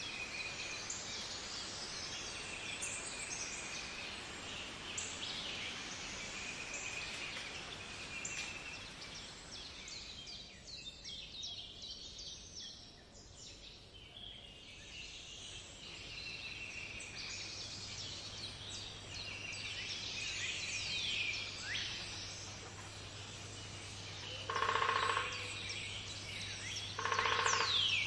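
Many birds chirping and singing in a dense chorus that thins out about halfway through, then two louder, lower calls of about a second each near the end.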